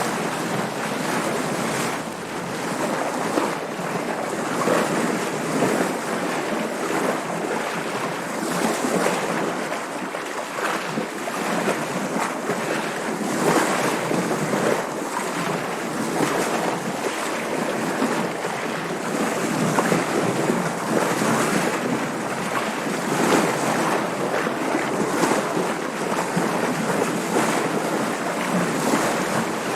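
Water splashing and rushing against a sailboat's hull under way, with wind over the microphone; the splashes surge and ease every second or so without a break.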